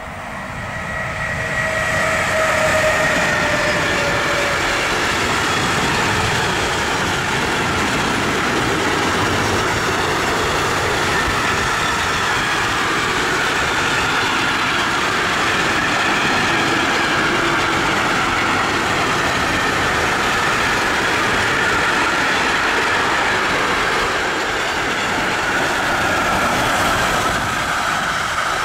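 Container freight train behind an electric locomotive passing at speed: a steady rumble and clatter of wagon wheels on the rails, swelling over the first two seconds. High whining tones run over it and dip slightly in pitch a couple of seconds in.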